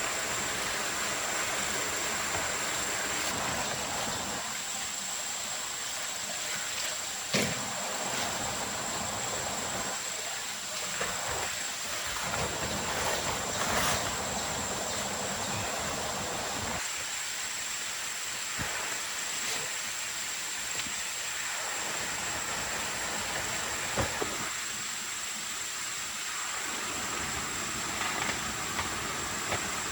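Forest ambience: a steady hiss with a constant high-pitched insect drone over it, and a few faint knocks.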